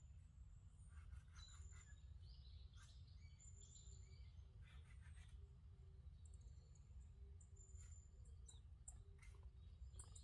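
Faint birdsong: several wild birds calling in short, high chirps and whistled notes, scattered through the stretch, over a low steady rumble.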